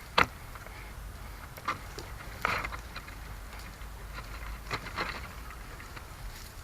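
Twigs and branches snapping and rustling: a handful of sharp cracks, the loudest just after the start, over a low steady wind rumble.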